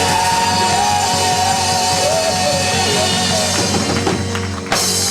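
Live gospel group performance: voices singing held, wavering notes over a band with drums. A single loud hit sounds near the end.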